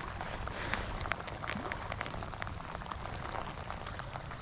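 Steady rain falling, with many individual drops clicking sharply close by.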